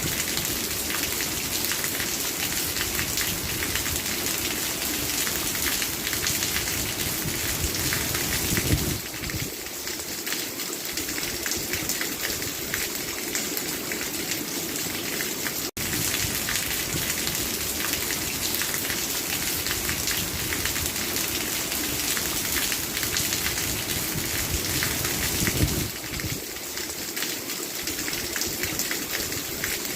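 Steady rain falling and pattering on a surface. It runs as a repeating loop: the same brief swell and dip come twice, and the sound cuts out for an instant about halfway through.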